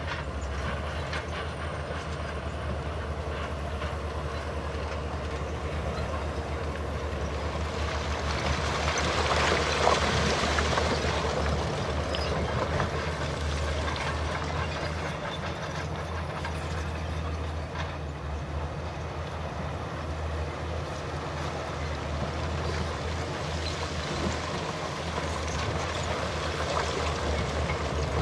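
Heavy earthmoving machinery working: a diesel engine runs steadily under a continuous metallic clatter, swelling louder about eight to twelve seconds in.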